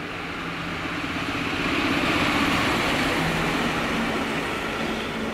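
EP07 electric locomotive coming out of a tunnel and passing close by at the head of a passenger train. A rumble of wheels on rail grows louder over the first two seconds, then holds, with a steady low hum underneath.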